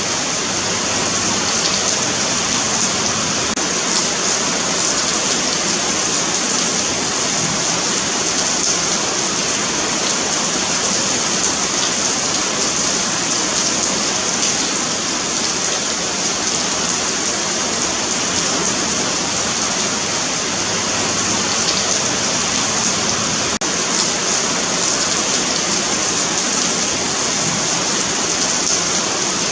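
Steady rain falling on a paved sidewalk, an even hiss of drops with no let-up.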